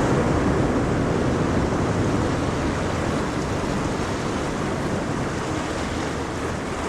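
Ocean waves breaking and washing on a shore, a continuous surf rush that ebbs slightly near the end.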